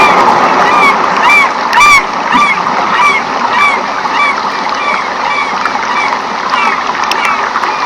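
Rainforest ambience: an animal's short arched calls repeating about twice a second over a steady rush of water. The calls are loudest in the first two seconds.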